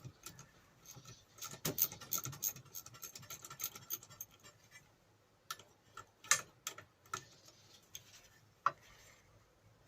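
Irregular light metallic clicks and taps of hand tools working bolts loose on a bench grinder. They are dense for about the first four seconds, then come as a few separate sharper clicks.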